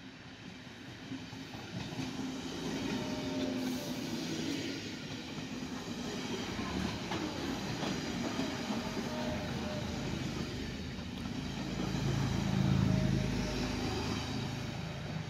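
Passenger train passing close by on the track: the rumble builds as it approaches, then the carriages go past with a steady rushing wheel-on-rail noise. The sound is loudest and deepest about twelve seconds in.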